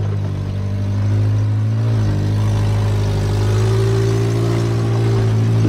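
Off-road 4x4's engine running under load as it crawls up a trail obstacle: a steady drone whose tone shifts slightly about two seconds in.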